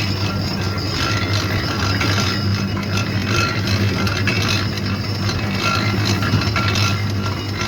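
Factory machinery running steadily, a low hum under continuous mechanical noise.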